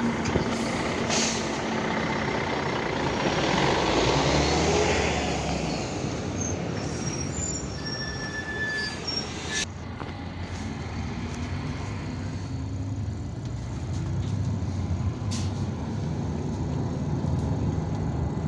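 IVECO Urbanway 18M articulated city bus under way: steady engine and road noise, with a pitch that rises and falls about three to five seconds in. A single sharp knock about ten seconds in.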